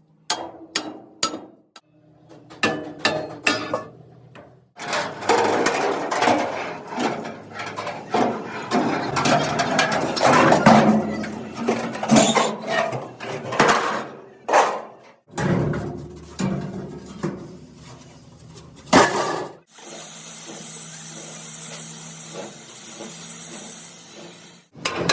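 Metalworking on a truck body: a run of sharp hammer blows on metal, then a long stretch of dense clattering with many strikes. A steady hiss takes over for the last five seconds.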